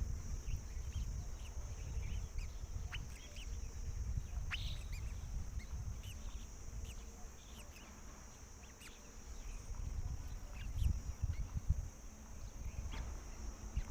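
Short, scattered high chirps from black drongos at the nest, where the parents are feeding their chicks; the clearest comes about four and a half seconds in. Under them run a steady high hiss and a louder, uneven low rumble.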